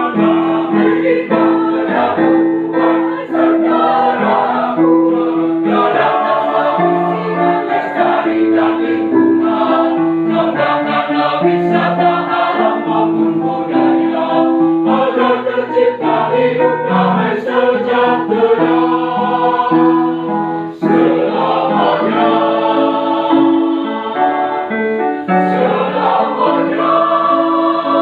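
A choir singing together, with long held notes changing every second or so.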